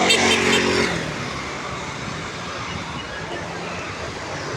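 City street traffic: cars running and passing, a steady wash of road noise. A brief pitched tone sounds in the first second before the traffic noise settles.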